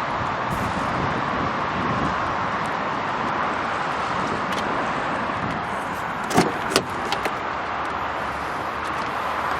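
Steady outdoor background noise with two sharp clicks close together about two-thirds of the way through.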